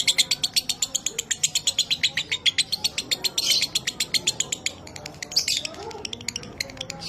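Lovebird ngekek: a long, fast chattering trill of sharp high chirps, about eight to ten a second, with a few louder, harsher squawks mixed in about three and a half and five and a half seconds in.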